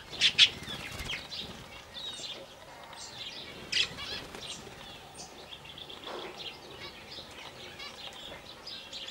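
Several small aviary birds chirping and calling continually, with two louder sharp bursts, just after the start and again about four seconds in.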